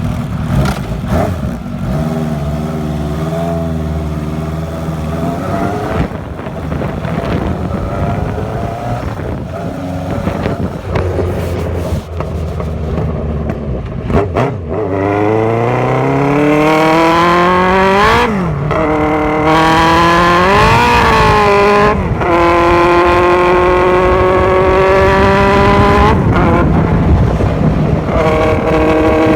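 Honda CB1100F Super Bol d'Or's air-cooled inline-four engine, hoarse-voiced, running at low revs. About halfway through the bike pulls away and accelerates, its pitch rising and dropping back at two gear changes. It then holds steady revs before easing off near the end.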